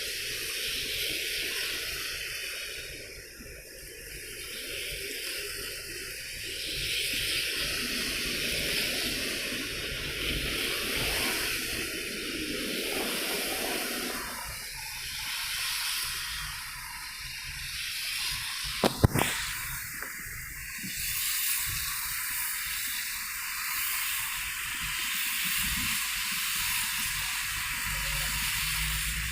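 Steady watery hiss of vehicle tyres running on a rain-soaked road, throwing spray, with a low rumble underneath. A single sharp click cuts through about two-thirds of the way in.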